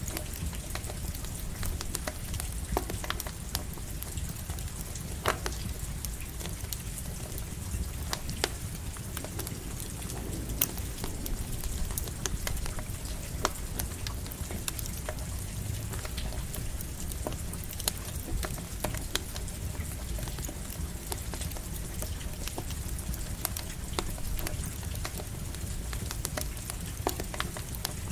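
Campfire crackling with irregular sharp pops over a steady hiss of light rain.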